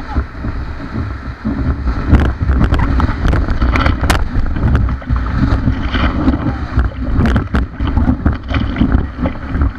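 River water rushing and splashing around a paddled raft, with many sharp splashes, and wind buffeting the microphone.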